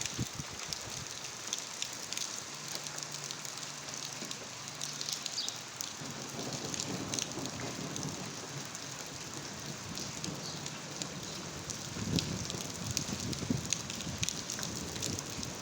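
Rain falling steadily, a dense patter of drops with many small ticks. A low rumble swells up about twelve seconds in.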